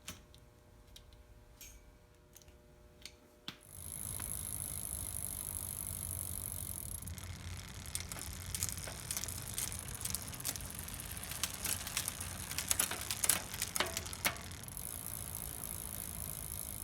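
A restored 1994 GT Karakoram mountain bike in motion. After a few light clicks, a steady whir with a high freewheel buzz starts about four seconds in. Through the middle it gives way to rapid clicking and rattling, and the buzz returns near the end.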